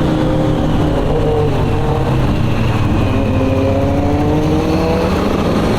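Sport motorcycle engines accelerating hard: the note climbs, drops at a gear change about two seconds in, then climbs again through the rest, over a steady low engine rumble.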